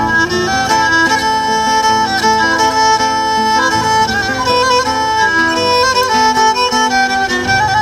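Instrumental break of a Turkish Black Sea folk song: a bowed fiddle plays a quick ornamented melody of short notes over a low steady accompaniment.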